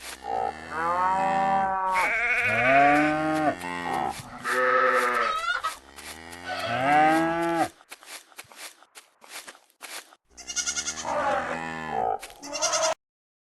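Farm animals bleating: a run of drawn-out calls, each rising and falling in pitch, then a pause with a few clicks and another stretch of quavering bleats that cuts off suddenly near the end.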